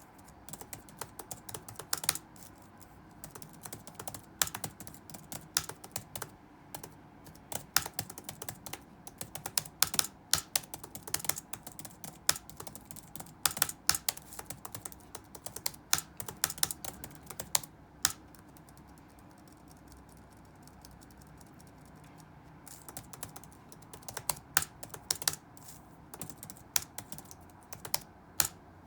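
Computer keyboard typing in quick, irregular bursts of key clicks, with a pause of about four seconds past the middle before it picks up again, over a faint steady room hum.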